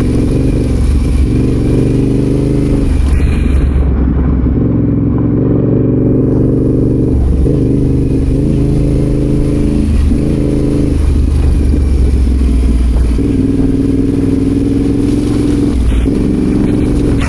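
Adventure motorcycle engine running while riding off-road, its note stepping up and down many times as the throttle opens and closes and the gears change.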